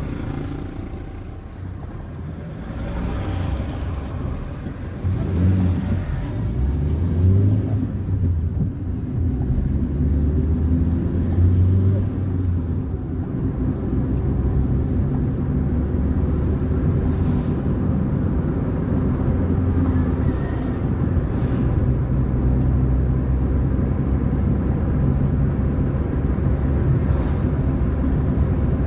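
Car driving along a road: a steady low rumble of engine and road noise that grows louder over the first few seconds, with the engine note shifting in pitch before settling.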